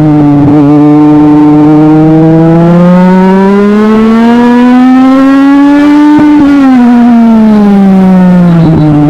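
Legend race car's Yamaha motorcycle engine running loud under load. Its revs climb slowly for about six seconds, then fall away over the next two or three seconds and steady near the end.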